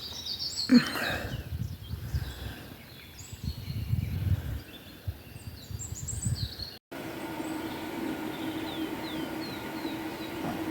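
Small birds chirping, with gusts of wind rumbling on the microphone. After a cut about seven seconds in, a steady low hum sets in, and birds still give a few short falling calls.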